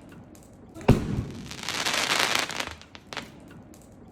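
Wood bonfire crackling and popping, with one sharp loud thump about a second in followed by a dense stretch of crackle.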